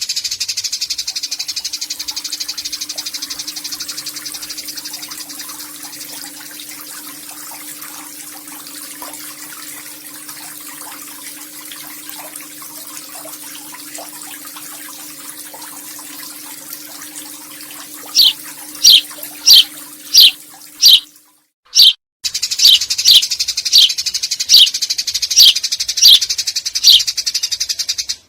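Eurasian tree sparrow chattering in a long, fast, high trill that slowly fades. About two-thirds of the way in it switches to loud, sharp, down-slurred chirps, about two a second, with a brief break partway.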